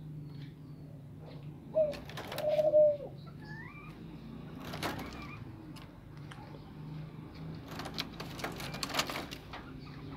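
Low bird calls: a short note and then a longer held note about two seconds in, followed by a brief higher chirp. Scattered short clicks and rustles come later.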